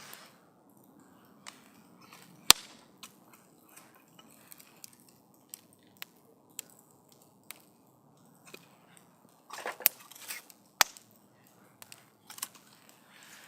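Wood campfire crackling, with scattered sharp pops over a low hiss: one loud pop about two and a half seconds in, and a quick cluster of pops about ten seconds in.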